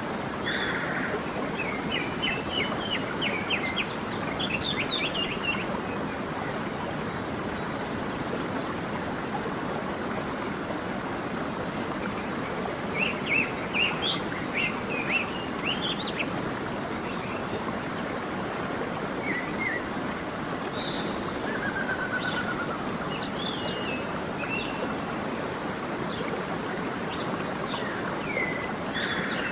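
A stream running steadily over stones, with several songbirds chirping in short bursts of rapid notes over it, about three spells of song.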